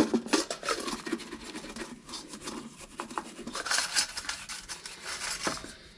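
Dirty carburetor parts being scrubbed and rubbed clean in a basin of off-road diesel: uneven bursts of scratchy scrubbing with small clicks and knocks of the parts.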